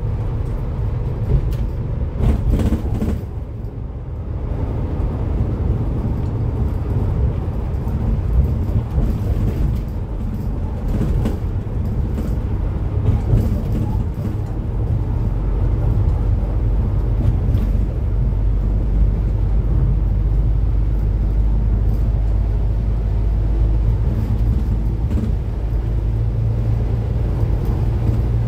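Cummins ISF3.8 four-cylinder turbodiesel engine of a Daewoo Lestar bus running, heard from aboard the bus: a steady low rumble that grows somewhat louder about halfway through.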